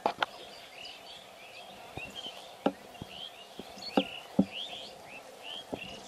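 Small birds chirping over and over in short quick notes, with a few sharp clicks and knocks scattered through.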